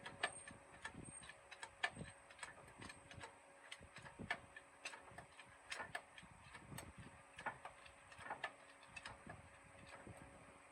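Faint, irregular clicks and light taps, about two a second.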